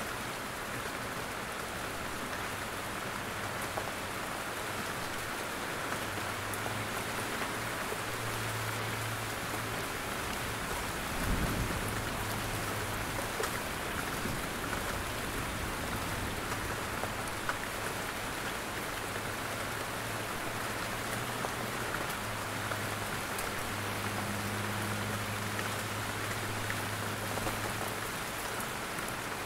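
Steady rain with drops falling from trees, an even hiss throughout. A brief low thump comes about a third of the way through.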